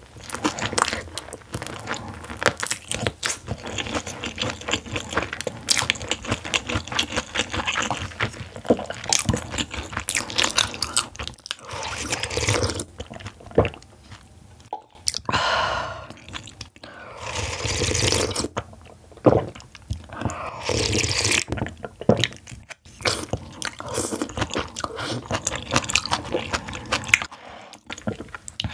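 Close-miked eating sounds: crunching and chewing on crispy sauce-coated fried chicken, with moist mouth sounds as spicy jjambbong noodle soup is eaten from a ladle partway through.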